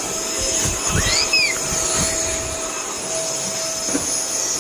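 Vacuum cleaner running steadily, a whirring rush with a constant high whine. About a second in, a brief high squeal rises and falls in pitch over it.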